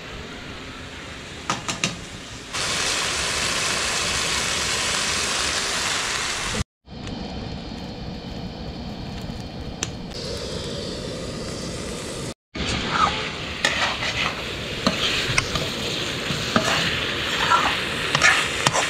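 Chicken cooking with a steady sizzling hiss, and in the last several seconds a spoon stirring chicken curry in a metal wok, clicking and scraping against the pan. The sound cuts out abruptly twice.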